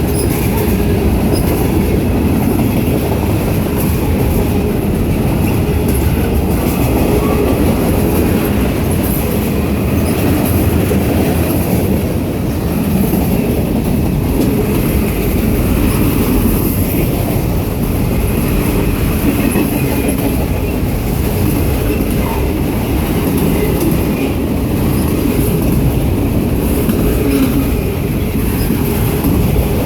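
Freight train rolling past, a steady loud rumble of wheels on the rails.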